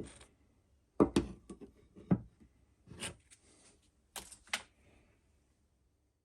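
A handful of sharp knocks and clatters, irregularly spaced, like hard objects being handled and set down on a workbench.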